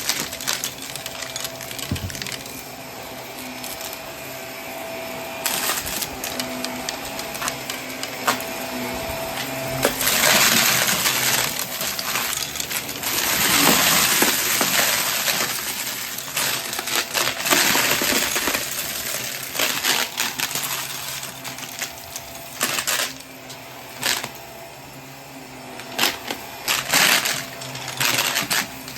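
Vacuum cleaner picking up a weighted debris mix: hard bits click and rattle up the hose over the steady hum of the motor. There are louder stretches of rushing suction around the middle.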